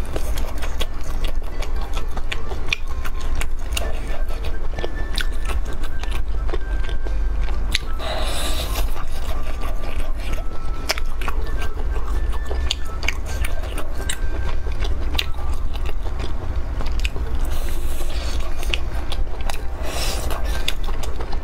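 Close-miked biting and chewing of chili-coated grilled seafood skewers: many sharp, wet clicks and crunches in quick succession, with a noisier chewing stretch about eight seconds in.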